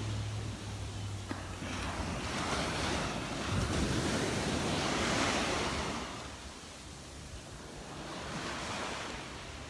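Gulf of Mexico surf breaking and washing up the beach, swelling twice in the first half and easing off after, with wind rushing over the microphone.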